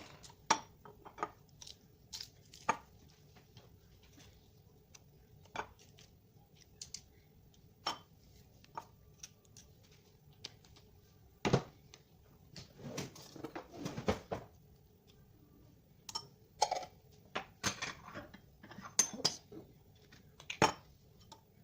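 A spoon and kitchenware clinking and knocking against a bowl and jars in irregular taps, with busier stretches of clatter, during dressing preparation.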